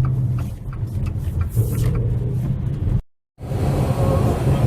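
Car driving on snowy roads, heard from inside the cabin: a steady low rumble of engine and tyres, with light regular ticking about three times a second in the first half. The sound cuts out completely for a moment about three seconds in.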